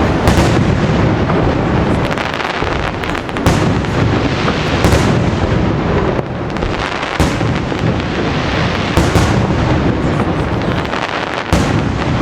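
Aerial fireworks display going off continuously: a dense run of booming shell bursts and crackle, with a sharper bang every second or two.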